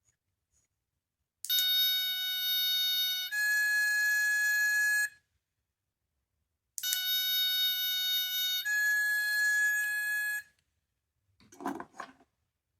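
Small electronic sound toy playing a two-note tone: a held lower note stepping up to a slightly higher held note, each lasting almost two seconds, sounded twice. A brief rustle of handling near the end.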